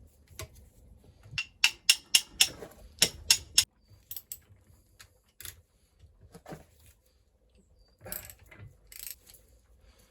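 Metal clicks and clinks of hand tools working on a stripped engine: a quick run of about eight sharp clicks over two seconds, then a few scattered fainter ones.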